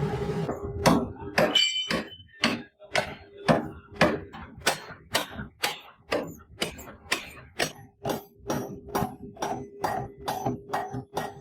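Metal being struck repeatedly with a hammer, about two blows a second, some blows leaving a short ring.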